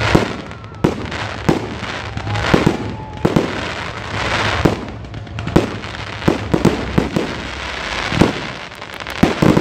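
Fireworks display: aerial shells bursting overhead in a rapid, irregular series of sharp bangs, about one or two a second, with the crackle of glittering stars filling the gaps and swelling midway.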